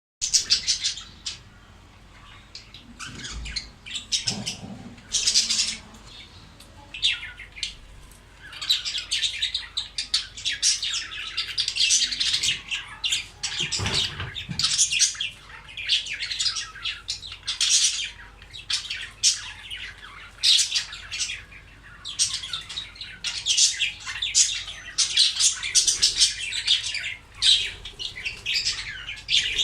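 Pet budgerigars chirping and chattering: a busy run of quick, high chirps and squawks, broken by short pauses.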